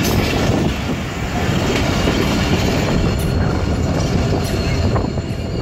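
Pakistan Railways passenger coaches passing close at speed: a steady loud rumble of wheels on rails, with clacks as the wheels cross rail joints.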